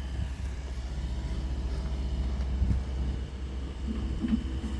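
Steady low rumble of a running vehicle, even throughout, with a faint hiss above it.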